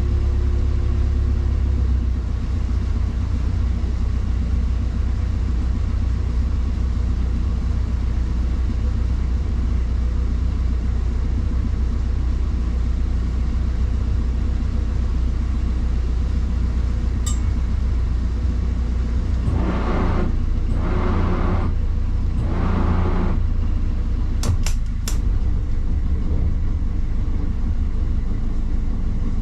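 Engine of a Norfolk Broads hire cruiser running steadily under way, a low drone. About two-thirds of the way through, three short louder sounds break in, followed by a few sharp clicks.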